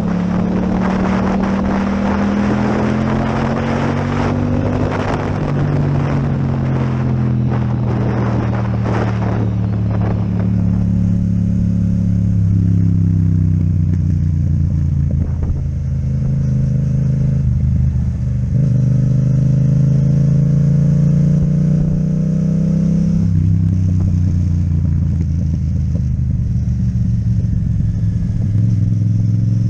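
Yamaha MT-07 parallel-twin engine with an Akrapovic exhaust running under way. Its pitch rises and falls with the throttle and steps down or up with several gear changes. A rough clattering noise runs through the first ten seconds or so.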